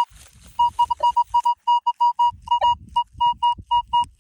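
Metal detecting pinpointer beeping rapidly over a target in the hole, a single high tone repeated about five times a second at uneven intervals, with soft scraping of dirt underneath.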